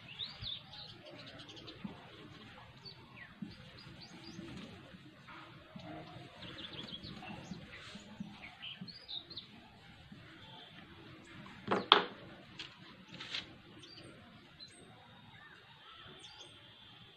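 Small birds chirping intermittently in the background, short high calls scattered throughout, over faint room noise. A brief louder sound comes about twelve seconds in.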